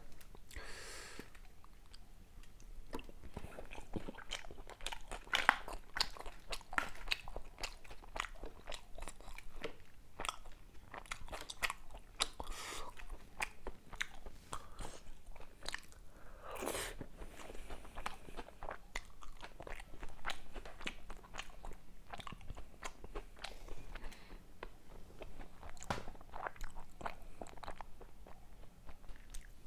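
Close-miked chewing of a mouthful of chicken tikka masala pasta, with many small wet clicks and smacks of the mouth.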